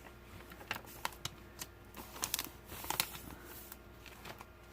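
Paper pages of a handmade journal being handled and turned: faint rustling with scattered light taps and clicks, thickest a little past two seconds in.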